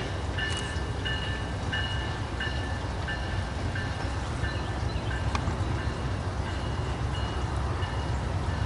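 Train passing with a steady low rumble, while a bell rings over and over, about twice a second, with a few sharp clicks.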